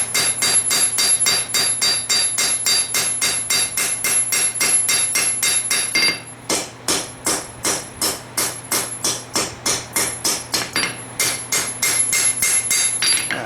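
Hammer blows on a hot steel farrier rasp against an anvil, with a ringing tone, about four blows a second. The blows break off briefly about six seconds in, then resume a little slower, stopping just before the end.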